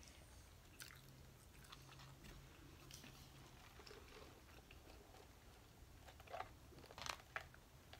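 Very quiet chewing and mouth sounds with a few faint short clicks and smacks. A cluster of slightly louder clicks about six to seven seconds in comes with a sip of iced Sprite through a plastic straw.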